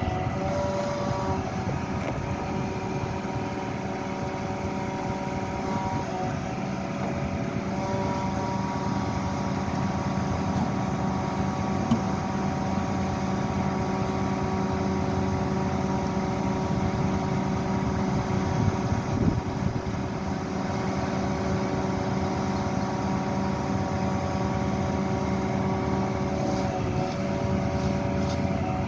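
Utility bucket truck's engine running steadily while the boom works, with a constant even drone.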